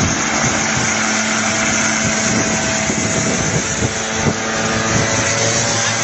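Engine of a homebuilt light aircraft running steadily, with a dense rushing noise over its hum.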